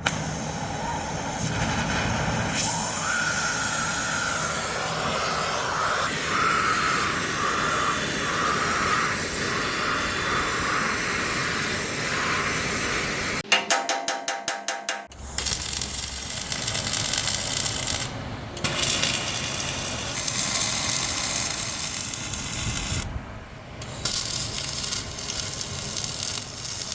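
Arc welding on heavy steel plate: long runs of steady crackling hiss as a corner tip is tacked onto a bulldozer blade, with brief stops between runs. About halfway through comes a short run of rapid, even ticking.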